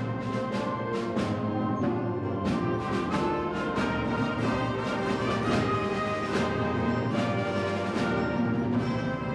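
High school wind ensemble playing: sustained brass and woodwind chords with percussion strokes falling on a regular beat.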